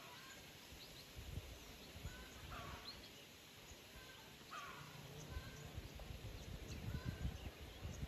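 Short, faint bird chirps repeated about once a second over a low outdoor rumble.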